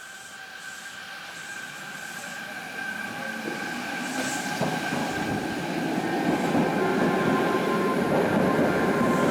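Nanakuma Line linear-motor subway train moving off as an out-of-service run, its rumble and wheel-on-rail noise building steadily louder over a few seconds, with faint steady tones above.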